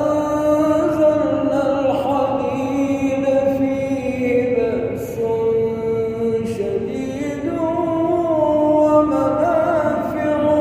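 A man reciting the Quran in melodic tajweed style, drawing out long held vowels with ornamented turns and several step changes in pitch.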